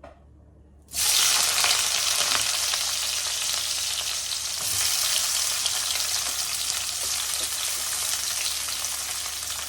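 Sliced onion dropped into hot olive oil, sizzling loudly as it fries. The sizzle starts suddenly about a second in and keeps going steadily, while the onion is stirred.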